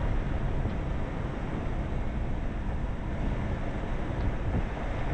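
Steady road and engine noise inside a moving Jeep's cabin.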